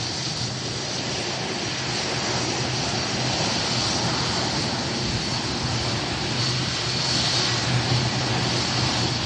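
Airliner engines running steadily, with a constant low hum under a broad, even rush.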